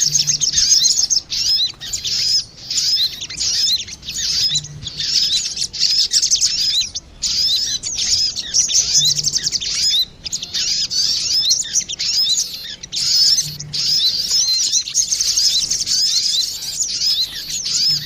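Sogon birds (crimson sunbirds), males and females, calling back and forth as a lure call: rapid, high-pitched twittering chirps in bursts of a second or two with short breaks between.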